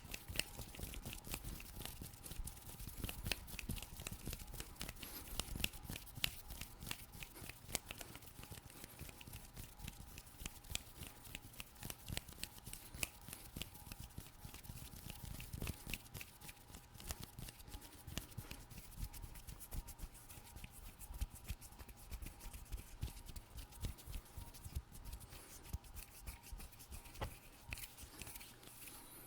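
Fast hand sounds close to a microphone: a dense, continuous run of quick clicks and crackly rubbing from fingers and skin.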